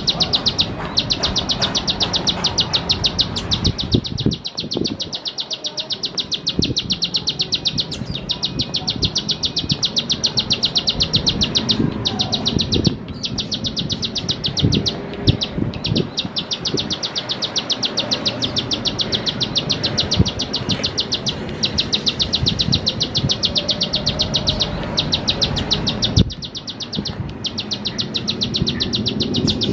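Ciblek sawah (a prinia) singing long runs of rapid, evenly repeated sharp clicking notes, broken by short pauses.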